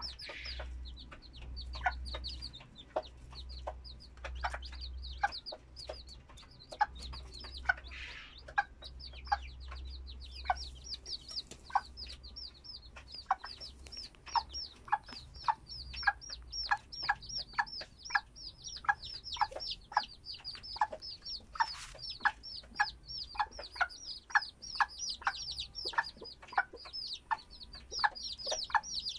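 İspenç chicks peeping: a steady stream of short, high peeps, several a second.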